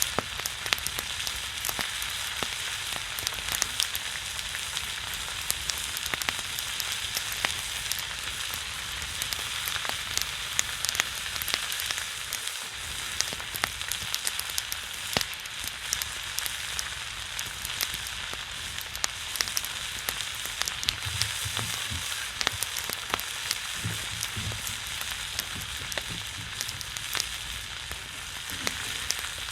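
Pork belly sizzling on a griddle over a pine-wood fire, its fat spitting and popping in a steady hiss scattered with sharp pops, a sound like rain.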